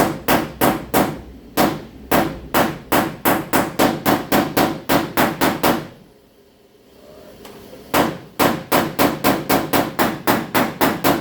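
Body hammer tapping on the steel quarter panel of a pickup, quick light strikes about three to four a second, knocking down a high spot in the sheet metal. The taps come in runs, with a pause of about two seconds in the middle.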